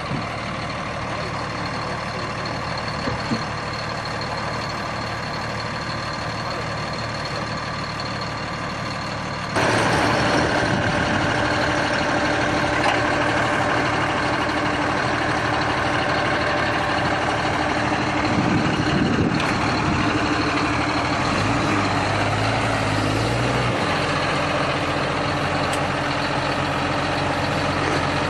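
Heavy vehicle engine running steadily. About ten seconds in the sound abruptly gets louder and then stays at that level.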